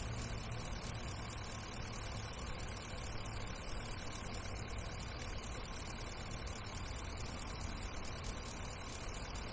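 Pickup truck engine idling steadily, a constant low rumble.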